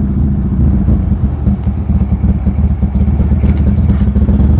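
Buell Lightning XB12S's air-cooled V-twin running loud and fairly steady through its aftermarket D&D exhaust, with the uneven, offbeat firing beat of a Harley-type twin.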